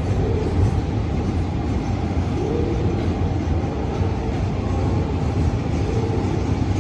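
Freight train pulling out and rolling past at low speed, with a steady rolling noise of the wheels on the rails and a few faint, brief tones.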